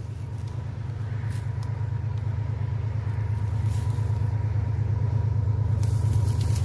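Diesel locomotive of an approaching train, a low engine rumble growing steadily louder as it nears.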